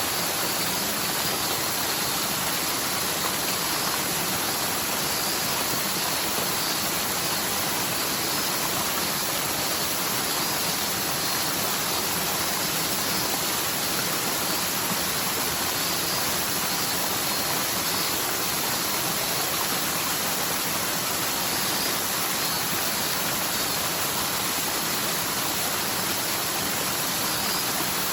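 Rain-swollen mountain stream in a forest, its water rushing down the slope in a steady, even flow; the stream is normally nearly dry and runs like this only after heavy typhoon rain.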